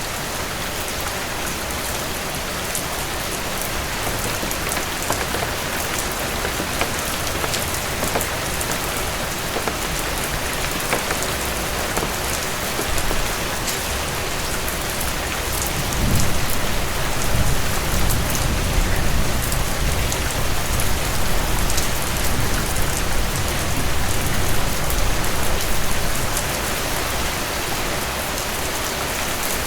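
Heavy rain falling steadily, an even hiss. About halfway through, a low rumble rises and lasts around ten seconds.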